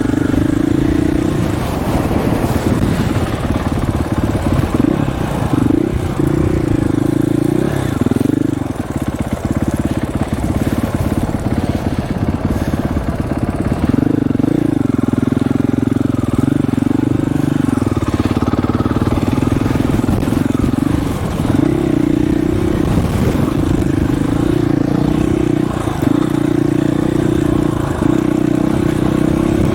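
Dirt bike engine running while riding, its pitch rising and falling again and again as the throttle opens and closes, over a low buffeting of wind on the microphone.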